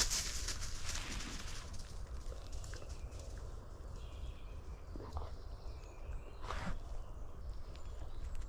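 A dog's paws crunching and rustling on a woodland trail, picked up close by a camera strapped to the dog: a rustling stretch at the start, then a few separate crunches later on.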